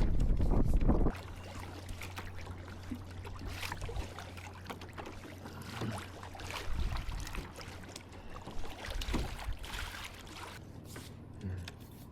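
Wind buffeting the microphone for about the first second, cutting off suddenly. It is followed by small water splashes and trickles against a kayak, with scattered light knocks and clicks and a faint steady hum.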